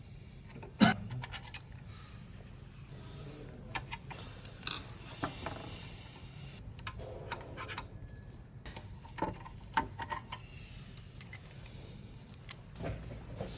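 Small metal and plastic parts and tools clicking, tapping and clattering at irregular intervals while a blood gas analyzer is being taken apart, with one sharp knock about a second in.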